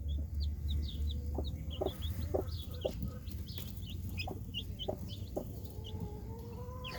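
Newly hatched chicks peeping in quick, high, falling chirps while the mother hen gives a string of short, low clucks, over a steady low hum.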